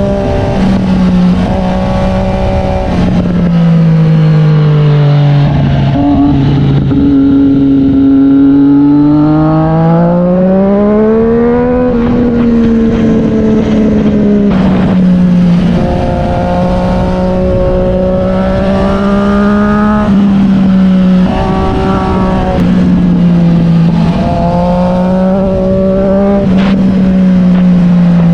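Triumph Street Triple 765 R's inline three-cylinder engine running through an SC Project S1 exhaust. Its note holds steady, sags lower several seconds in, climbs back about twelve seconds in, then stays mostly steady with small dips, with several short sharp cracks along the way.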